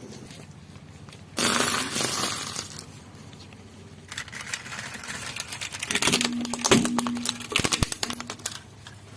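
Crackling and crunching as a car tyre rolls over and crushes an object. There is a burst of noise about a second and a half in, then a long run of sharp crackles and snaps from about four seconds in, with a brief squeak among them.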